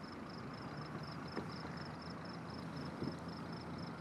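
Steady low hum of an idling vehicle with crickets chirping in an even rhythm, about three chirps a second, and two faint ticks.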